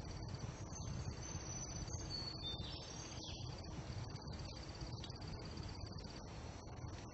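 Insects trilling steadily in a high, fast-pulsed buzz, with a few brief higher chirps between about one and three and a half seconds in, over a low rumble.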